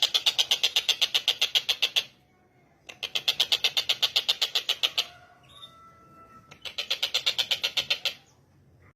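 Tengkek buto calling in rapid runs of sharp repeated notes, about eleven a second, three runs broken by short pauses, with faint thin whistles in the middle pause.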